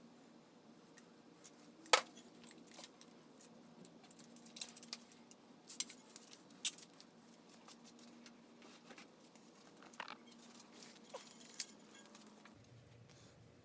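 Scattered light clicks and clinks of tools and small metal parts being handled, the sharpest about two seconds in. A steady low hum comes in near the end.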